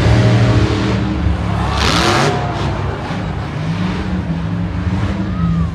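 Monster truck engine running loud and low, with a brief burst of noise about two seconds in.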